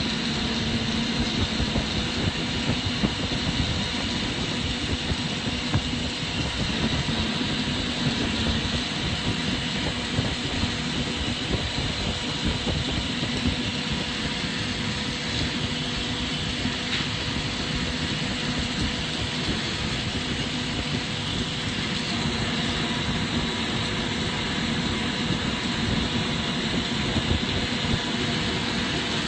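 Steady rushing roar of glassworking torch flames and shop ventilation, with a constant low hum running underneath.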